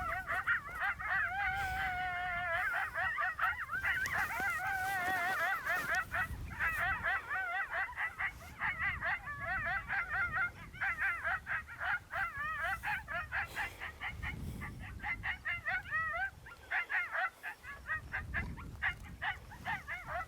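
Coyote group yip-howl chorus: a long howl tails off in the first couple of seconds, then many high, rapidly warbling yips and yelps overlap, thinning out toward the end.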